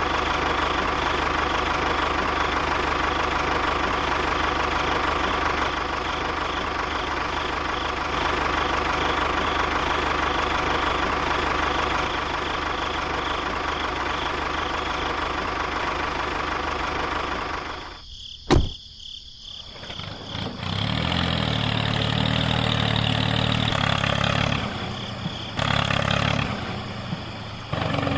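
Model tractor's motor running steadily. About 18 seconds in it drops out and there is a single sharp click, then a lower-pitched running sound takes over.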